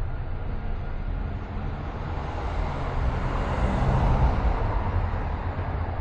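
Steady road and engine noise of a car driving through city traffic, swelling louder about four seconds in and easing off again, as of a vehicle passing close by.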